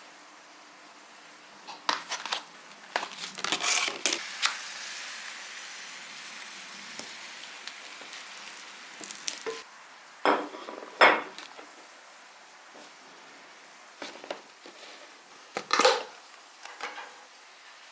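Dishes and cutlery clinking and knocking during breakfast preparation, in several short clatters, with a soft steady hiss for a few seconds after the first group.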